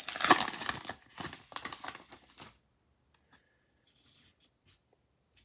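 Baseball card pack wrapper being torn open and crinkled for about two and a half seconds, then a few faint clicks as the cards are handled.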